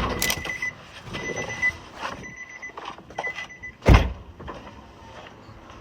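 Infiniti G37's warning chime beeping in quick repeated beeps, then a single heavy thump about four seconds in, as of a car door or hood shutting.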